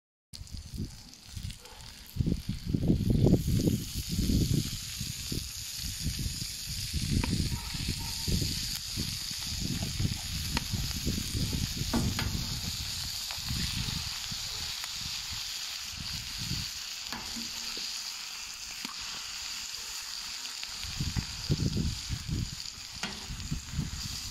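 Bacon, corn, onions and mushrooms sizzling on the hot steel plate of a wood-fired fire-pit grill, a steady high hiss. An irregular low rumble comes and goes under it, loudest a few seconds in.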